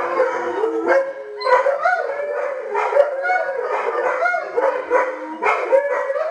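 Several malamutes howling together, many overlapping wavering voices broken by sharp barks and yips. This is the pack answering the siren of a fire truck going by.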